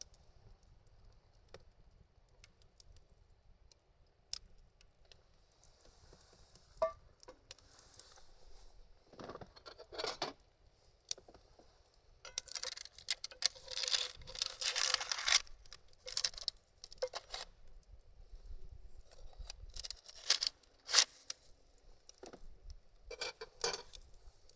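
Intermittent hand-work sounds of food preparation: scattered sharp clicks and several bursts of scraping and rustling, the longest about halfway through.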